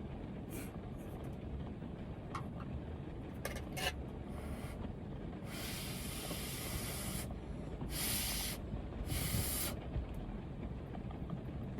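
Three hissing slurps of hot udon noodles, the first longer, about halfway through, over a steady low rumble of heavy rain on the van. A few light clicks come a little earlier.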